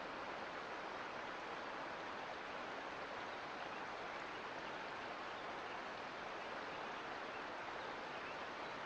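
Mountain creek water flowing, a steady even rush with no breaks or separate splashes.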